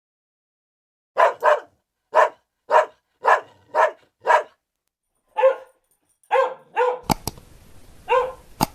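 A dog barking repeatedly: about a dozen short, sharp barks, starting after a second of silence, with two sharp clicks near the end.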